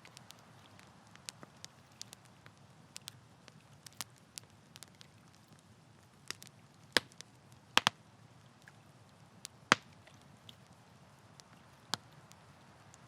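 Wood campfire crackling: irregular sharp pops and snaps over a soft steady hiss, with a few louder pops about halfway through.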